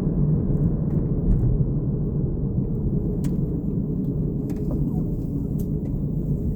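Low, steady rumble of road and engine noise inside the cabin of a moving car.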